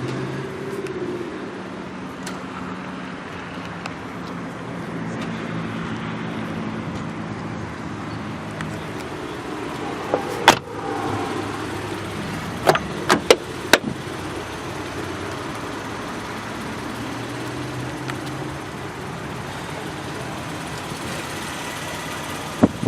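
Electric power seat motors of a Mercedes-Benz ML 320 running with a steady hum while the seat is adjusted. Several sharp clicks come about ten to fourteen seconds in and once more near the end.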